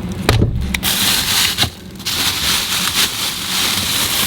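Crackling and rustling of food packaging being handled, with a short knock about a third of a second in and a brief pause near the middle.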